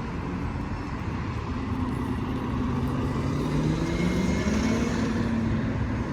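A motorcycle engine accelerating, its pitch rising steadily from about a second and a half in and loudest near the end, over a steady low traffic rumble.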